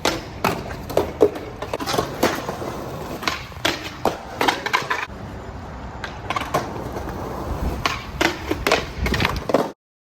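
Skateboard rolling, with repeated sharp clacks and knocks of the board hitting the ground. The sound cuts out abruptly near the end.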